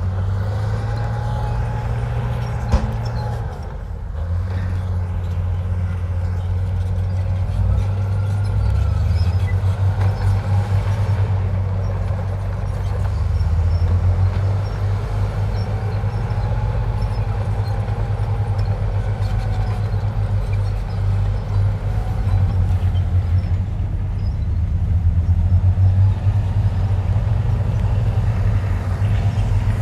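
Komatsu bulldozer's diesel engine running steadily under load, a deep drone with faint whines that rise and fall, and a single sharp clank about three seconds in.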